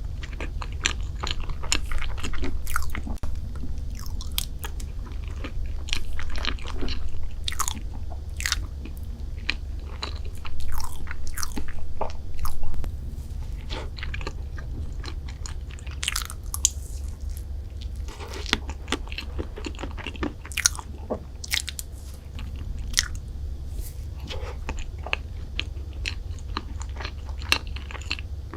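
Close-miked eating of chocolate desserts: irregular crunchy bites and chewing with many small crackles, over a steady low hum.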